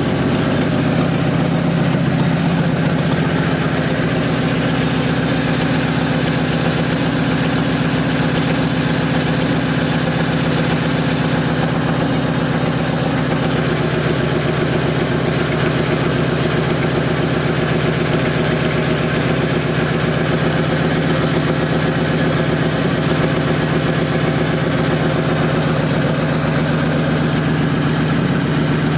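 Harley-Davidson Road King's Twin Cam 88 V-twin engine idling steadily.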